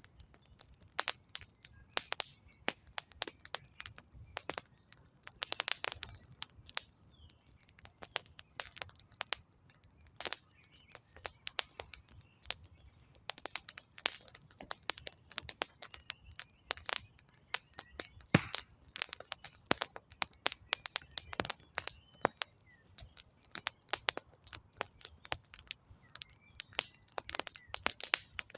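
Wood campfire crackling, with irregular sharp pops and snaps from the burning logs scattered through the whole stretch.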